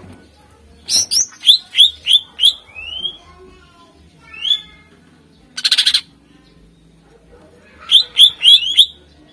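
Cucak ijo (green leafbird) singing: a run of about five quick rising whistled notes about a second in and another near the end, with a short harsh rattle between them.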